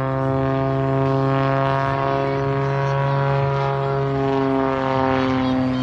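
Propeller airplane engine droning steadily, a strong low hum with a slight slow waver in pitch.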